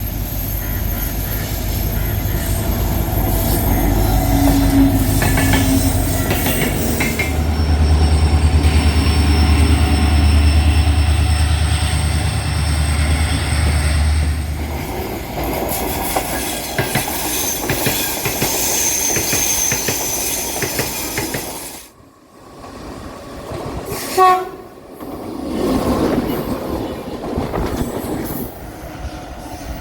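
Trains passing on a curve: a heavy low rumble from the locomotive and coaches with thin, steady wheel squeal high above it. The sound drops away abruptly about two-thirds through, then a short horn blast and more train running noise follow.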